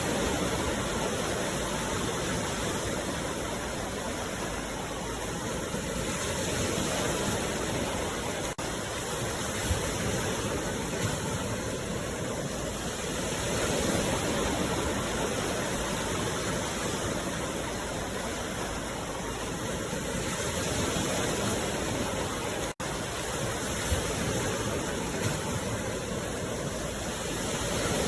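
Sea waves washing ashore: a steady rush of surf that swells and eases every six or seven seconds, with a momentary dropout about two-thirds of the way through.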